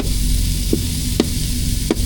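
Ground meat sizzling in a frying pan, with a spatula knocking against the pan three times as it breaks up the meat. A steady low hum runs underneath.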